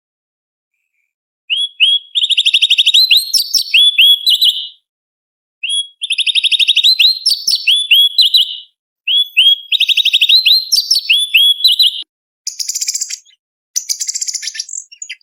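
A cucak cungkok leafbird singing: three bouts of fast chattering trills built from quick, rising notes. Near the end these give way to harsher, buzzy chatter.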